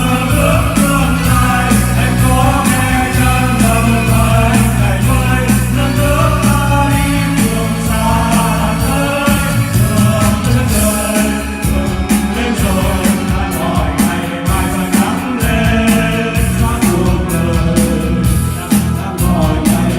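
A song: a singing voice over band accompaniment, with a steady bass and a regular drum beat.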